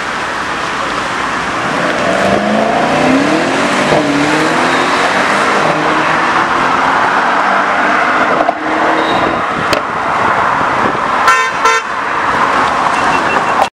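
Mercedes sedan accelerating hard away, its engine rising in pitch, dropping at a gear change and climbing again before fading into steady traffic noise. Near the end come two short car horn toots.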